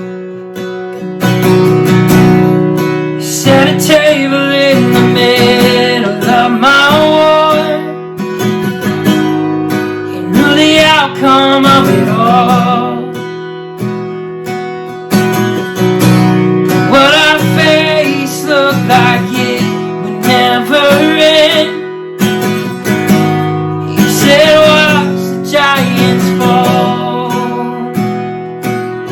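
Acoustic guitar strumming chords, with a wavering melody line coming in over it in phrases every few seconds.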